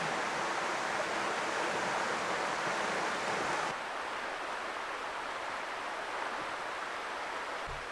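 Steady rushing of flowing water. About three and a half seconds in it drops abruptly to a quieter, even hiss.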